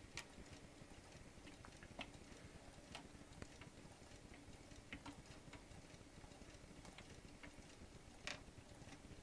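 Near silence with a faint low hum and a few scattered, irregular soft clicks.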